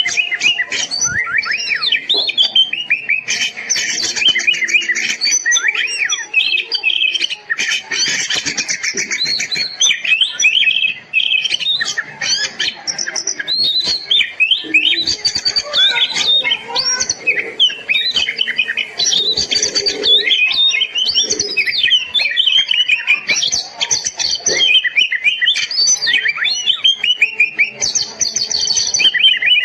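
Oriental magpie-robin (kacer) singing loudly and without pause: rapid, varied whistled phrases mixed with buzzy, harsh notes.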